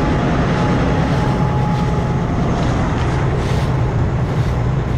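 Combine harvester running steadily while harvesting soybeans: a constant low engine hum under an even rushing noise.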